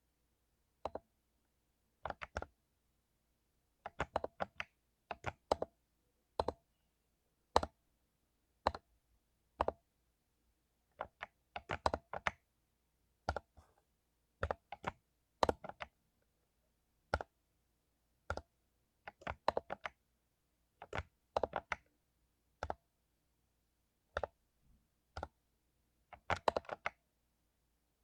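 Mechanical keyboard with lubed Cherry MX Silver linear switches being typed on: sharp separate keystrokes, singly and in quick clusters of two to five, at an uneven pace with short pauses between.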